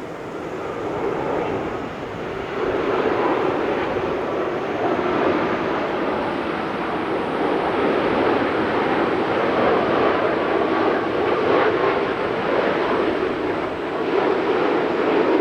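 Jet airliner engine noise: a steady rushing sound that grows louder about two and a half seconds in and stays up.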